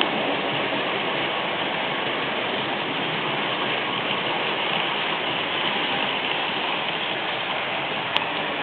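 Märklin model train running along the track: a steady whirring rush of motor and wheels on rail, with one sharp click near the end.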